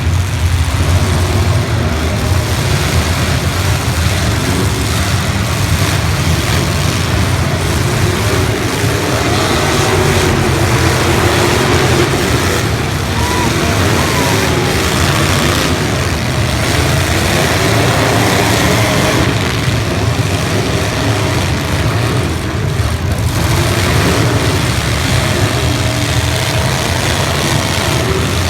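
Demolition derby cars' engines running loudly together in a continuous rumble, with pitch wavering as they rev.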